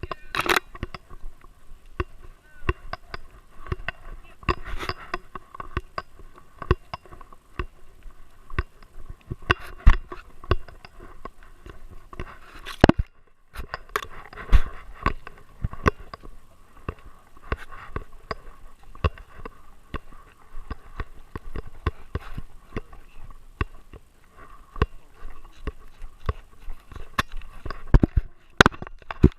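Irregular clicks, knocks and rubbing from a GoPro mounted on a moving dog: the camera housing and its mount jostle against the dog's harness and body.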